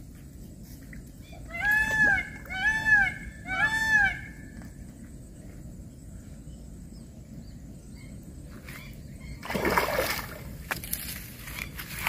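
A bird calls three times in quick succession, each call rising and then falling in pitch. Near the end a hooked fish splashes at the surface as it is played in close to the bank.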